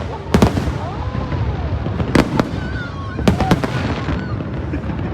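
Aerial fireworks bursting in a display: sharp bangs about half a second in, a quick pair around two seconds in and another pair a little over three seconds in, over a continuous low rumble of further bursts.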